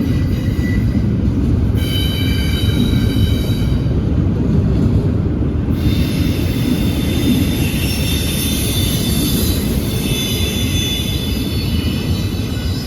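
Train rolling past: a loud steady rumble of wheels on rail, with high-pitched wheel squeal over it for a couple of seconds about two seconds in, and again from about six seconds until near the end.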